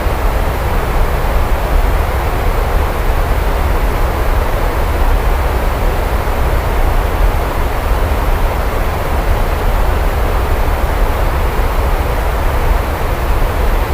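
Steady, heavy rainfall, an even, unbroken hiss with a deep low rumble beneath it; no separate thunderclap stands out.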